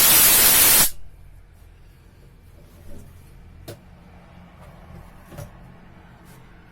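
A short blast of compressed air hissing as the disassembled common rail injector is blown out, cutting off about a second in. Then a few light clicks of small metal injector parts being handled.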